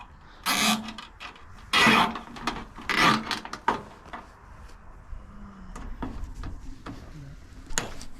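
Short rasping and rubbing handling noises as zip ties and Christmas light strands are pulled tight on a gutter: a few quick strokes in the first four seconds, the loudest about two seconds in, then quieter rustling.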